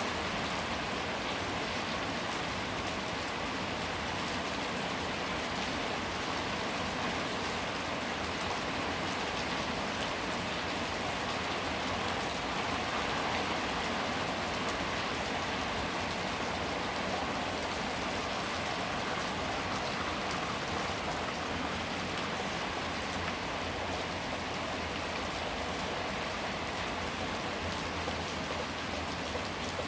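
Steady rain falling: an even hiss with scattered ticks of individual drops, unchanging throughout.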